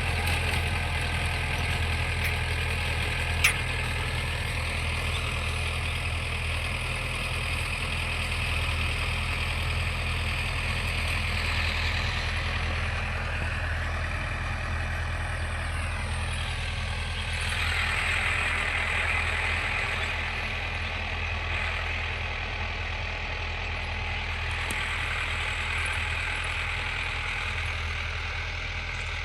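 Tractor engine running steadily, with a higher whine that falls in pitch about halfway through and a single sharp click a few seconds in.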